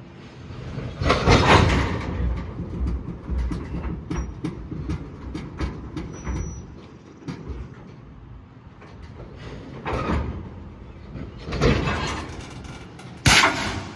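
Freight train air brake line releasing compressed air in several loud hissing bursts as a car is cut off: a long one about a second in, then three more near the end, the last starting suddenly. A lot of air pressure.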